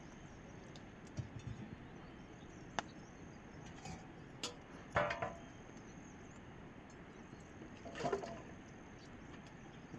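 Steady rain, with scattered sharp drips and clicks, and two short pitched calls about halfway through and again near the end.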